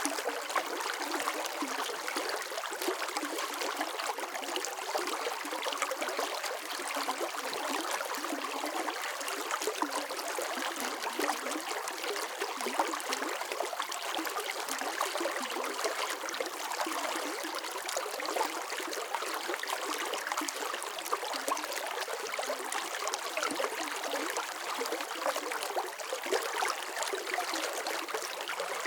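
Water flowing and babbling steadily, with many small splashes and trickles.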